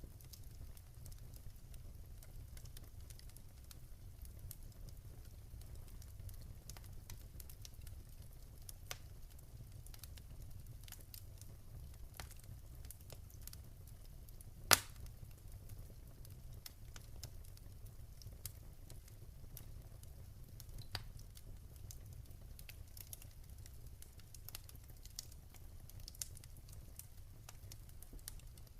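Wood fire crackling: scattered small pops and ticks over a low, steady rumble, with one loud, sharp pop about halfway through.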